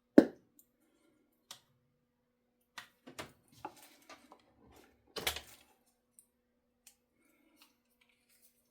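Handling noise from a guitar and its parts being worked on by hand: a sharp knock just after the start, then scattered light clicks and short rustles, over a faint steady hum.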